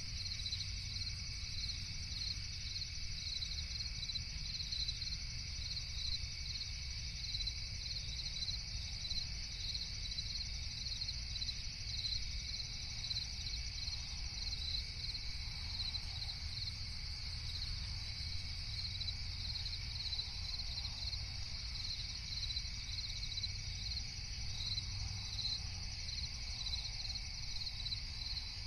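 Chorus of crickets chirping in a steady, high pulsing trill, over a low background rumble.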